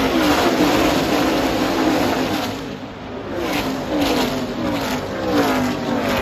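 NASCAR Craftsman Truck Series race trucks' V8 engines at full throttle, several passing one after another, each note dropping in pitch as it goes by.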